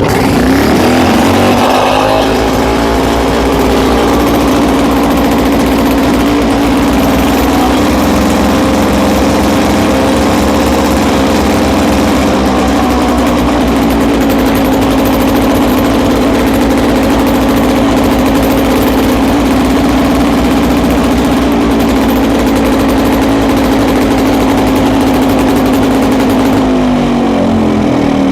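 Victa Mulch or Catch two-stroke PowerTorque lawnmower engine, just started after hard starting, running fast and steady. Its pitch falls away near the end as it slows. The engine starts but will not settle to an idle.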